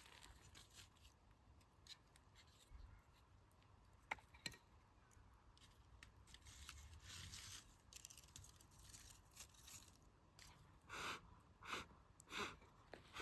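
Faint, sparse crackles and pops from a campfire's burning-down embers: a pair about four seconds in and a cluster near the end, over a quiet low rumble.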